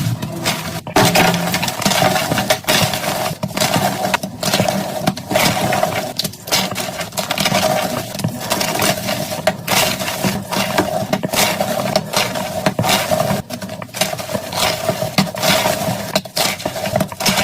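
Blocks of gym chalk being crushed and crumbled, a dense, irregular run of crunches and crackles, with a steady hum underneath.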